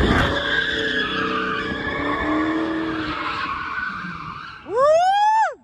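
Dodge Charger Hellcat's tires squealing in a donut, the squeal fading away over about four seconds. Near the end a man shouts a loud "woo!"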